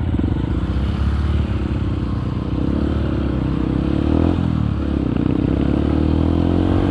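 Motorcycle engine running under way, its pitch shifting with the throttle; the revs drop and climb again a little after four seconds in.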